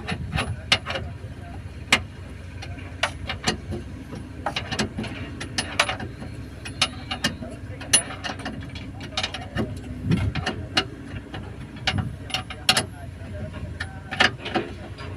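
Irregular sharp clicks and clinks of hand tools and metal parts being worked, over a low background hum.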